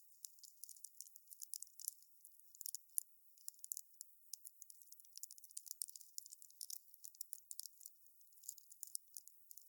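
Campfire of burning wood crackling: a dense, irregular run of small snaps and pops, thin and high-pitched with no low rumble.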